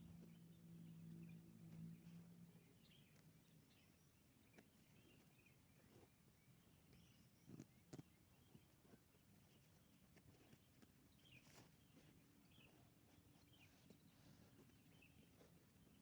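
Near silence: faint outdoor ambience with scattered faint high chirps, a low hum that fades out in the first few seconds, and two soft clicks about halfway through.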